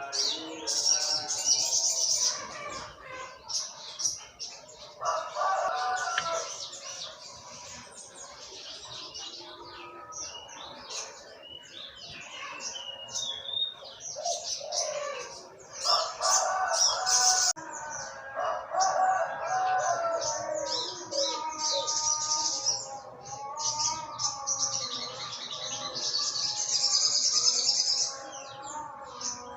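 Sogok ontong (little spiderhunter) singing a long, rapid, high-pitched run of chirps and trills, with lower calls of other birds woven in at times.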